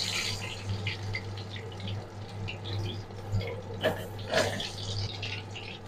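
Batter-coated chicken leg pieces frying in hot oil in a kadai: a steady sizzle with fine crackling, and two sharper clicks about four seconds in as a spatula turns a piece.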